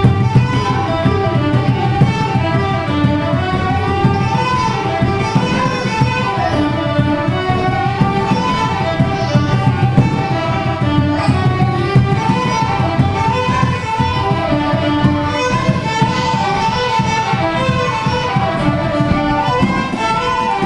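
Fiddle music: an Irish jig played at a steady pace, with a quick running melody over a constant rhythmic pulse underneath.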